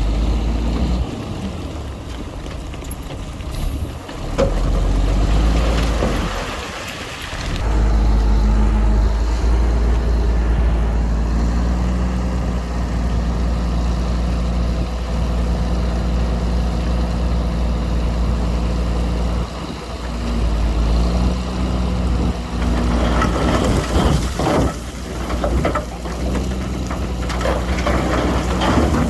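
Heavy diesel earthmoving machinery running under load, its engine pitch rising and falling, with a rattling, crackling noise joining near the end.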